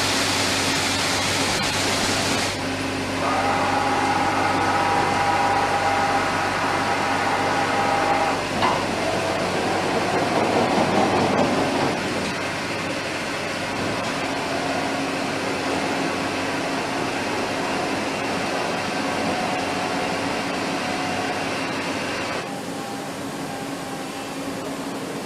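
Factory assembly-line machinery noise: a loud hiss for the first two and a half seconds, then a steady machine hum with several held tones, a single knock about nine seconds in and a rougher stretch of noise just after it.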